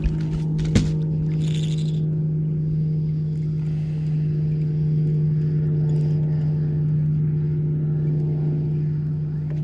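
Steady motor hum from a bass boat, holding one pitch throughout, with two sharp knocks in the first second and a brief hiss soon after.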